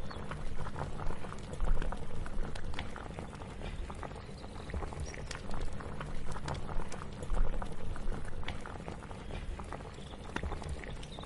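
A pot of liquid boiling, bubbling steadily with many small irregular pops and clicks over a low rumble.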